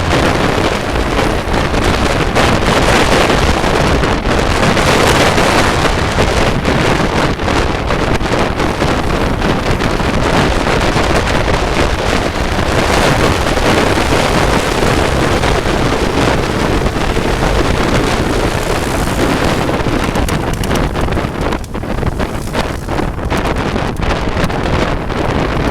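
Loud wind buffeting the microphone of a moving motorcycle, with vehicle noise underneath.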